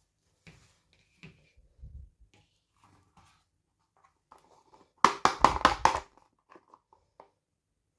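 Hands handling toy packaging: scattered small clicks and rustles, then a loud second-long run of quick crackles, like plastic or paper being crinkled or torn, about five seconds in, and a few more small clicks after it.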